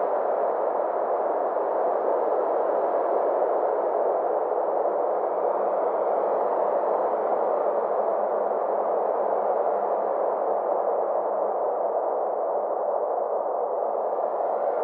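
Steady synthesized ambient space drone: a smooth wash of filtered noise, mid-pitched, whose brightness slowly sweeps up and down, over a faint low steady hum.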